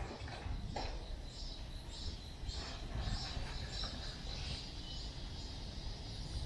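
Repeated high-pitched chirping, about two pulses a second, from birds or insects, over a low steady rumble of outdoor park and city background.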